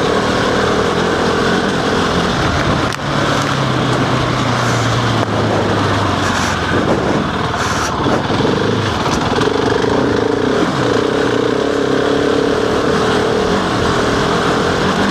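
Husqvarna 701's single-cylinder engine running while the motorcycle is ridden, its note rising and falling with the throttle, with a brief dip about three seconds in.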